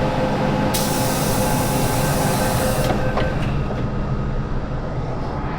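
MTR Island Line M-train in motion, heard from inside the carriage: a steady running rumble with a few steady motor tones that fade about halfway through. About a second in, a high hiss of air lasts roughly two seconds.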